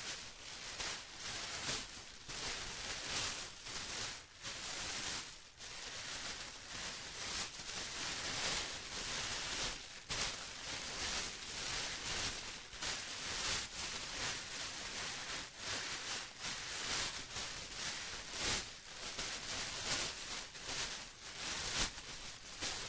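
Plastic being crinkled and rustled without pause, an uneven crackling hiss that swells and dips irregularly.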